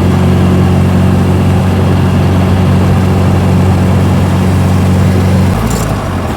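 1924 Austin Seven's small four-cylinder side-valve engine running steadily under way in top gear at about 33 mph, heard from inside the car. Near the end the engine note breaks and drops.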